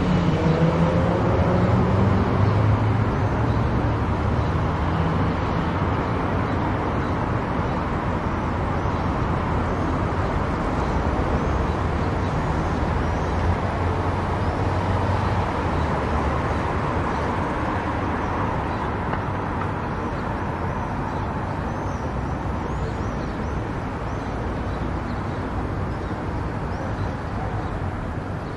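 A car driving at speed on an expressway: a steady rush of road and tyre noise with a low rumble. There is a briefly rising engine note in the first couple of seconds, and the noise eases a little toward the end.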